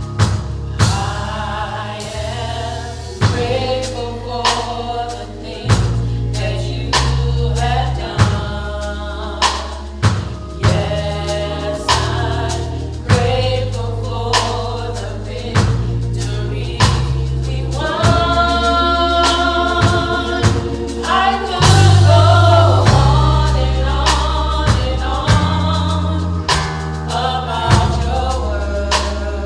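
Gospel choir singing with a band, over regular drum hits and a steady bass line.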